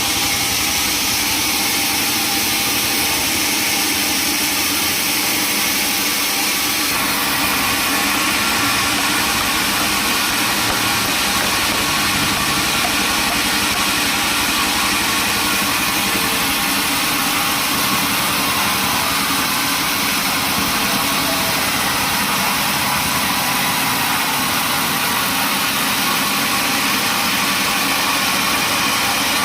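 Sawmill machinery running steadily with a loud, dense mechanical noise; its sound shifts about seven seconds in.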